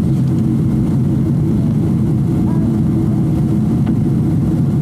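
Steady, loud low-pitched cabin noise of a Boeing 777-200 in flight: engine and airflow noise heard from inside the passenger cabin.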